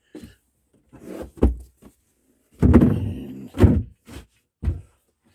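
A series of knocks and thumps as objects are handled and set in place in a small room, the loudest cluster about two and a half to three seconds in and another sharp knock just after.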